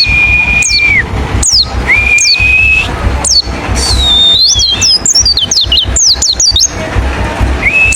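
Wild white-eye (pleci) calling: long level whistled notes that drop away at the end, alternating with sharp falling notes, and a quick run of twittering notes in the middle. A steady low hum and hiss lie beneath.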